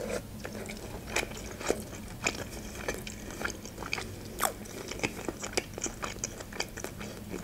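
Close-miked mouth sounds of someone chewing a mouthful of fried chicken hearts and potato: irregular wet clicks and smacks, with a louder one about four and a half seconds in.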